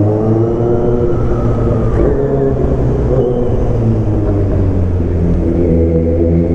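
Kawasaki Z900's inline-four engine running under way, its pitch easing down over the first couple of seconds and climbing again near the end as the rider rolls back on the throttle.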